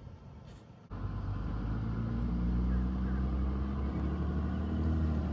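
A motor running steadily with a low, even hum, starting suddenly about a second in.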